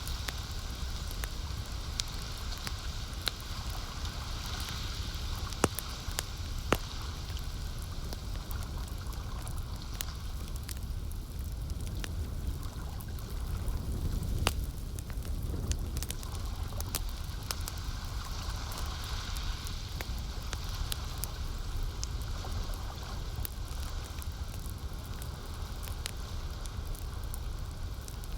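Campfire crackling, with sharp pops scattered irregularly through it and several louder ones in the first few seconds, over a steady low rumble and the soft wash of lake water.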